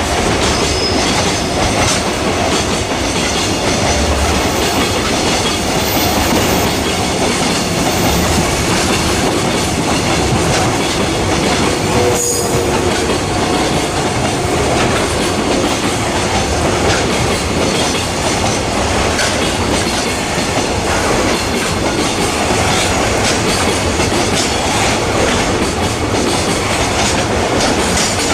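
Freight train rolling past: a steady, loud rumble of wheels on rail with clickety-clack over the rail joints.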